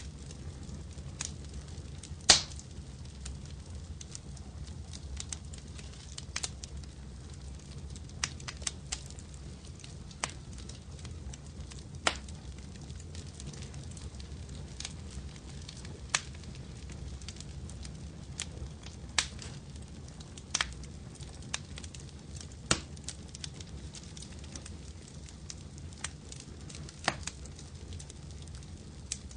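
Wood fire crackling in a fireplace: irregular sharp pops and snaps over a steady low rumble, with the loudest pop about two seconds in.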